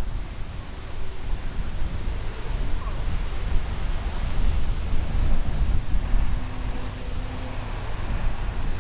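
Wind buffeting the microphone, a low, gusting rumble.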